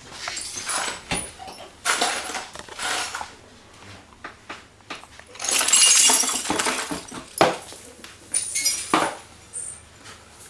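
Glass and dishes clinking and clattering in irregular bursts as things are moved about in a kitchen after an earthquake. The loudest clatter comes about halfway through, with a few sharp knocks later.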